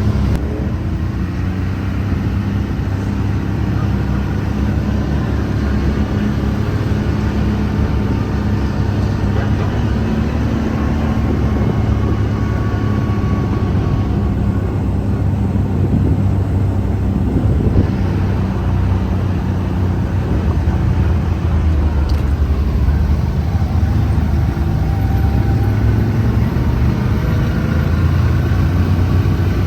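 Off-road vehicle engine running steadily under way, its pitch drifting slightly up and down with the throttle.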